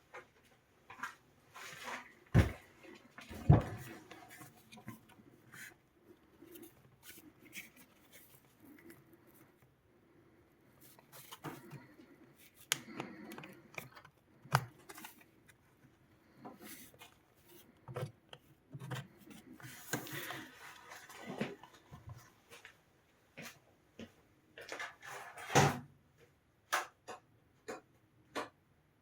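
Irregular clicks, knocks and scrapes of hand tools and plastic parts being handled while prying at a Sonos Playbar's casing, with heavier thumps about two and a half and three and a half seconds in and again near the end.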